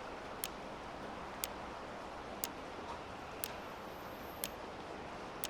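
Clock ticking steadily, one sharp tick each second, over a faint steady hiss.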